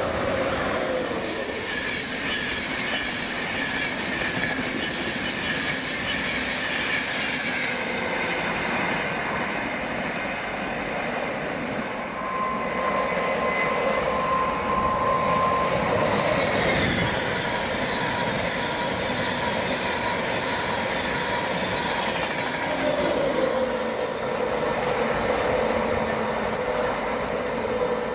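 Passenger train moving through a railway station. Steady whining tones slide down in pitch over the first several seconds and rise again after about twenty-three seconds, over continuous rumbling wheel noise.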